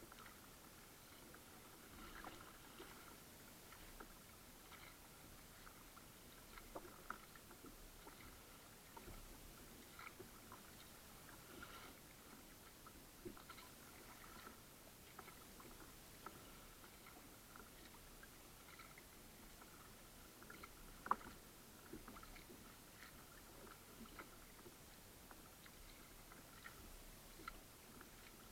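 Faint irregular splashes and drips of a kayak paddle dipping into calm water, with a sharper knock about 21 seconds in.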